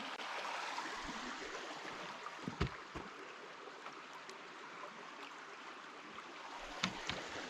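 Stream water running steadily, with a few soft thumps.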